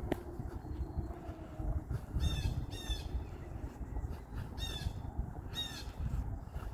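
A bird giving short, harsh, crow-like calls, four in a few seconds, over a low rumble.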